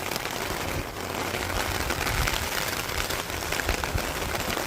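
Storm wind gusting and buffeting the microphone in a steady rumbling rush, with a fine crackling patter on top.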